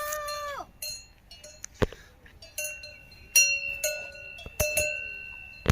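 Cowbell on a grazing cow clanking irregularly as the animal moves, each knock ringing on. A short high call opens the stretch.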